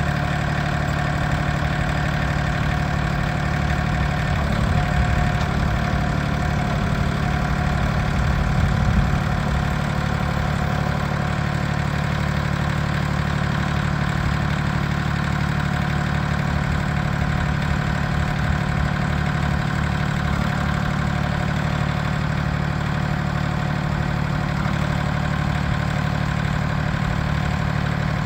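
Mahindra 1635 compact tractor's three-cylinder diesel engine idling steadily, swelling slightly louder for a moment about 5 seconds in and again about 9 seconds in.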